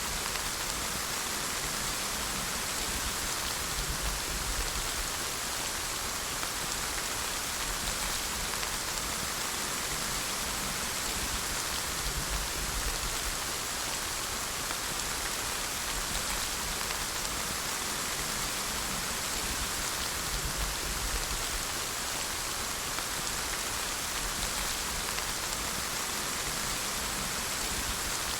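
Steady rain, a continuous even hiss of falling drops.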